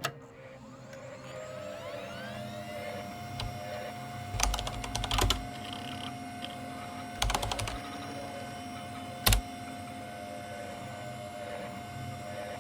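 A steady hum with a held tone, faint rising glides in its first couple of seconds, and a few sharp knocks: two close together, one a couple of seconds later, and a last, loudest one near the end.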